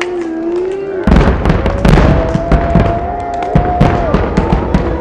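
Fireworks finale barrage: a dense run of booms and sharp crackling bangs, much louder from about a second in, with a long wavering held tone above them.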